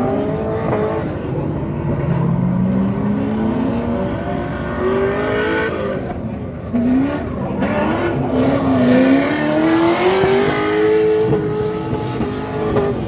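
Car engines revving hard, their pitch climbing and falling several times over.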